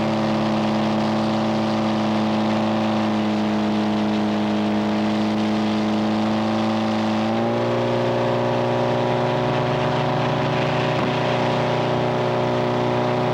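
Engine powering a Frick 00 sawmill, running steadily; its pitch sinks slowly, then picks up sharply about seven seconds in and holds there.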